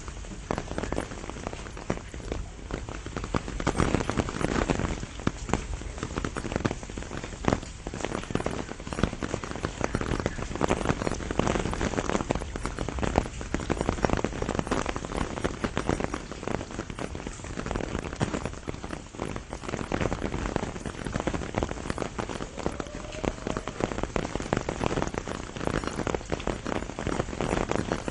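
Steady rain falling onto the leaves of a pomegranate tree, a dense patter of many individual drops.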